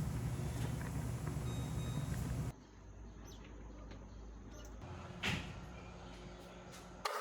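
Steady low engine-like rumble that cuts off suddenly about two and a half seconds in, followed by a much quieter stretch with a single short knock.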